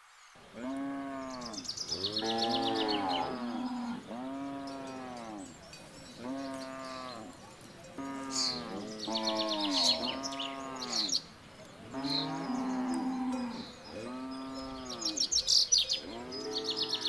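Cows mooing over and over, about one moo a second, each rising and then falling in pitch, several cows overlapping. Birds chirp in quick high trills at a few points between the moos.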